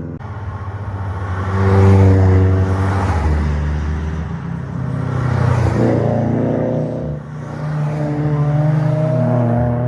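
Cars passing one after another, engines revving and easing off so the pitch rises and falls; the loudest pass comes about two seconds in, and another car builds in near the end.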